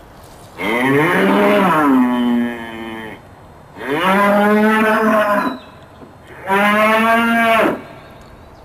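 Cattle mooing: three long moos, the first the longest.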